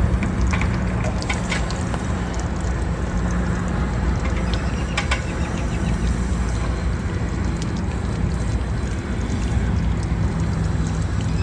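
Water heater tank-rinse wand spraying water inside the drained RV water heater tank, flushing out sediment: a steady rush of splashing water with a low hum underneath and a few light knocks.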